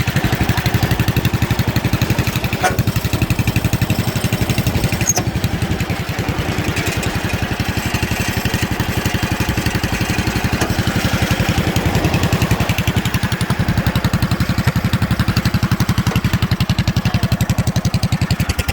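Pulling garden tractor's engine running loudly through its open exhaust pipe, a fast, even beat of firing pulses that holds steady, its beat slowing slightly at the very end.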